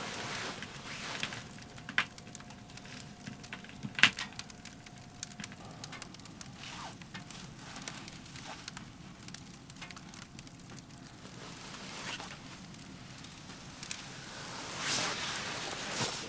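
Firewood crackling in a Pomoly Baker Ti wood stove: scattered irregular pops and ticks over a low hiss, the sharpest pop about four seconds in.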